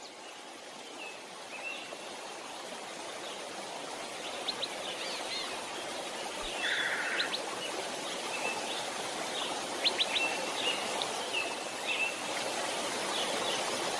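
Steady rush of flowing water that fades in and grows louder, with birds chirping at intervals throughout and a brief buzzy call about six and a half seconds in.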